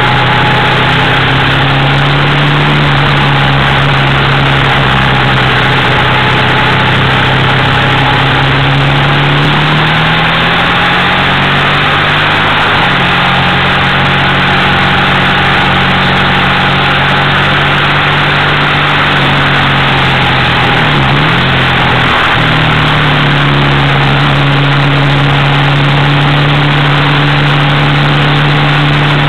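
Triumph Thruxton's parallel-twin engine running hard at a steady pitch, with heavy wind rush on the microphone. The engine note steps to a new pitch about halfway through and dips briefly and recovers about three-quarters of the way in.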